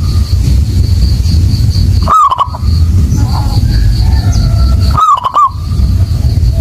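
Zebra dove (perkutut) cooing: a short phrase of three quick coos, given twice about three seconds apart, over a loud steady low rumble.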